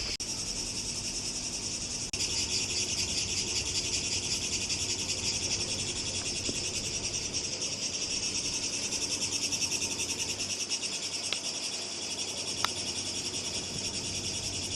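Chorus of insects chirring steadily, a dense high-pitched buzz with a fast pulse, with a couple of faint clicks near the end.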